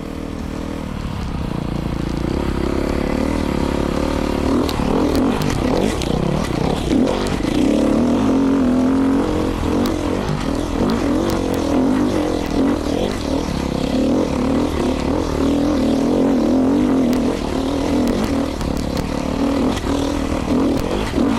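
Beta 500 RRS single-cylinder four-stroke dirt bike engine with an FMF exhaust, running under load while being ridden. The revs rise and fall with the throttle, and the sound grows louder over the first couple of seconds. Sharp clicks are scattered through it.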